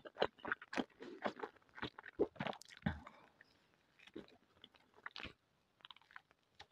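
Close-up mouth sounds of a person biting and chewing a piece of crusty bread: a quick run of crunches and wet smacks for the first three seconds, then sparser, fainter chewing.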